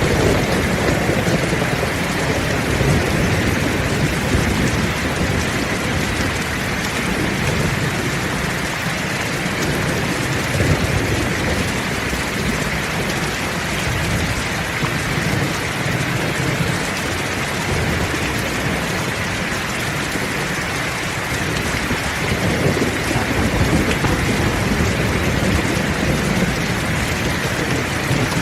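Heavy rain falling steadily, with low rolling thunder that swells and fades several times.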